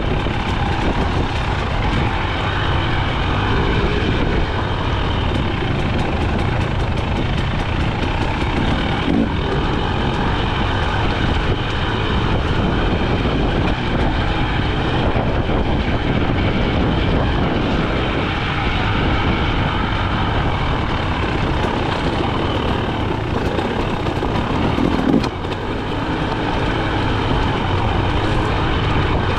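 KTM 300 XC-W single-cylinder two-stroke dirt bike engine running continuously while being ridden, its level steady with a short dip about 25 seconds in.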